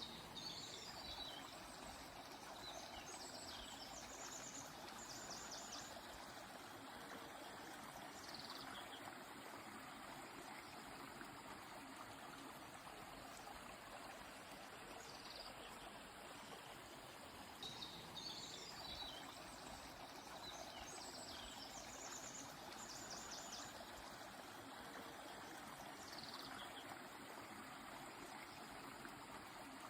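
Steady rush of a flowing stream with bird song over it: a burst of quick high chirps and trills at the start and again about halfway through, and a single short falling call between them.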